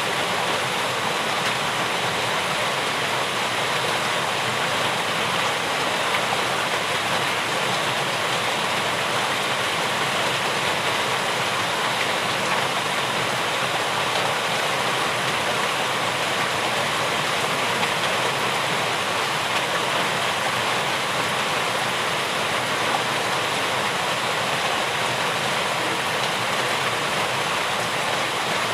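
Steady rain falling as an even, unbroken hiss, with no single drops or other events standing out.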